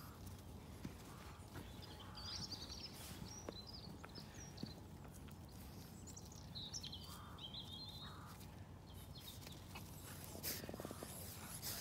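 Faint songbird chirps and twitters, in a couple of short spells, over a low steady outdoor background.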